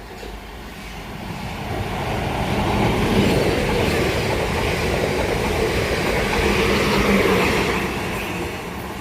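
A South Western Railway train running along the platform, its sound building over the first few seconds, holding loud, then easing off near the end.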